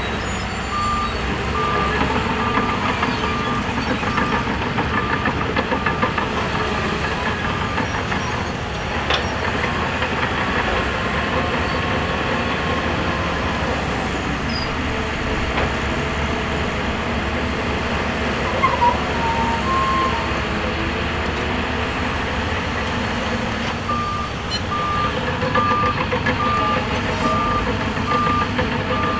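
Heavy earthmoving machinery running steadily, with a reversing alarm beeping about twice a second for the first several seconds and again near the end.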